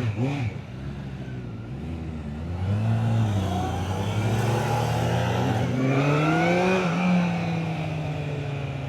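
Motorcycle engine pulling away and accelerating, its pitch rising, dropping at an upshift and rising again, then settling into a steady cruise.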